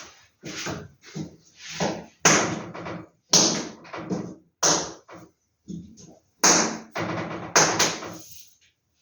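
Paper and packaging being handled as posters are unpacked and sorted: a run of sharp rustles, crackles and knocks about once a second, some louder than others.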